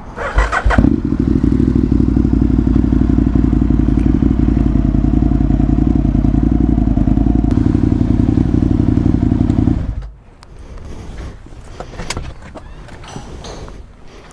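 Aprilia Tuono 1000R's 60° V-twin engine running loud and steady at low speed for about ten seconds, then switched off abruptly. This is followed by a few light clatters and knocks.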